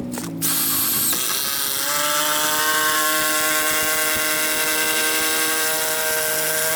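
Power drill running: the motor spins up, rising in pitch over the first second and a half, then runs at a steady speed for about five seconds before cutting off suddenly near the end.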